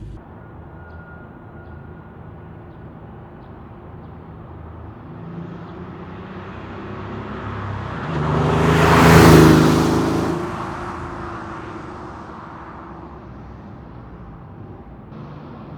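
A Porsche 964 Carrera 2's air-cooled 3.6-litre flat-six, breathing through a centre straight-through muffler, drives past: its exhaust note swells over several seconds, is loudest about nine seconds in, then fades away.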